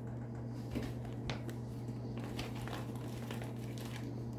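Crinkling and rustling of packaging being handled, with scattered small clicks, over a steady low hum.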